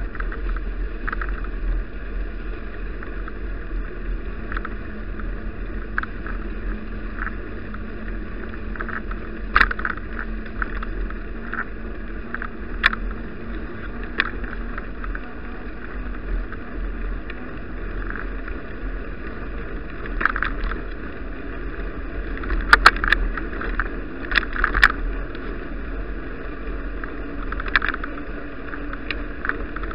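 Bicycle ride heard through a bike-mounted action camera: a steady rumble of tyre and wind noise, with irregular clicks and knocks as the bike and mount rattle over bumps, a cluster of louder knocks about three quarters of the way through.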